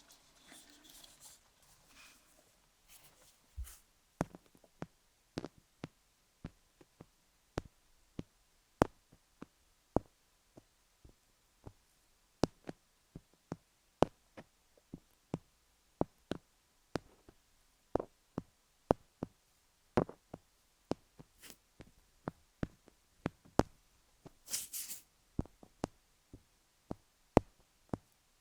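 Sharp, irregular taps and clicks on the gem-studded dummy-head microphone, roughly one to two a second, with light scratching at the start and a brief hiss near the end.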